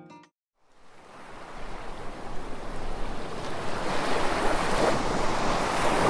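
Steady rush of surf and wind on the microphone, fading in about a second in and growing louder.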